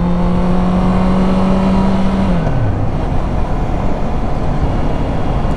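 Honda CB650F motorcycle's inline-four engine running at a steady pitch under wind rush, then falling in pitch a little over two seconds in as the engine slows.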